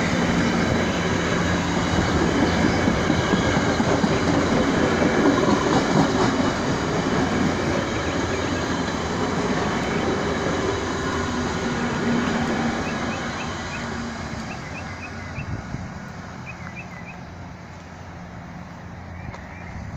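Virginia Railway Express commuter train of stainless-steel bilevel cars rolling past on the rails. The noise fades from about twelve seconds in as the train draws away.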